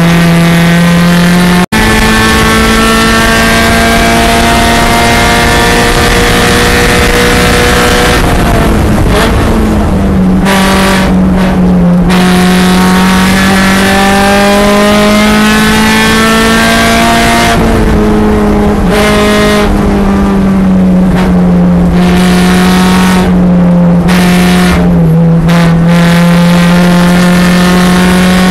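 2013 Subaru BRZ's 2.0-litre flat-four engine running hard on a race track, heard from inside the car. Its pitch falls and climbs again several times as the car slows for the corners and accelerates out of them.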